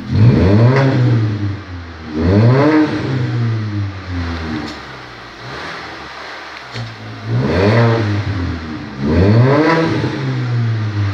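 Alfa Romeo 147's exhaust as the engine is revved from idle in four quick blips, two close together near the start and two more in the second half. Each blip rises and drops back to idle.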